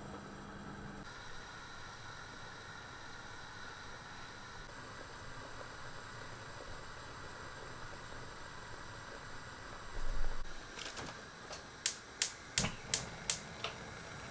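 Quiet room tone, then a brief rustle about ten seconds in, followed near the end by a quick run of six or seven sharp clicks.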